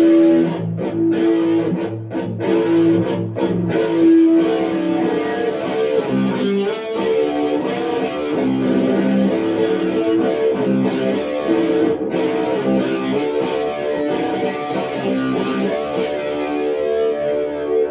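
Electric guitar played through a Sound JS HM-5 distortion pedal: short, stopped chords for the first few seconds, then ringing, sustained distorted chords.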